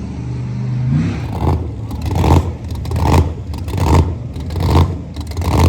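Car engine being revved: its pitch rises about a second in, then comes a run of short throttle blips, roughly one every 0.8 seconds.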